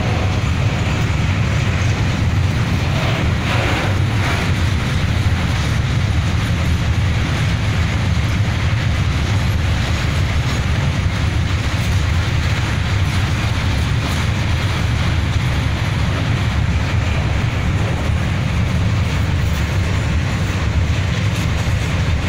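Slow freight train of tank wagons rolling across a railway bridge: a steady, loud, low rumble from the bridge under the passing wagons.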